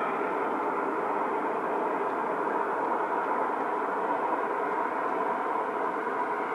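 Jet airliner engines running, a steady rushing noise with a faint whine in it and no clear rise or fall.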